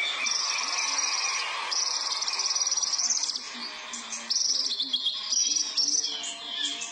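A sunbird (kolibri ninja) singing continuously: fast, high trilled phrases that break off and restart every second or two, a song stuffed with imitated cililin phrases.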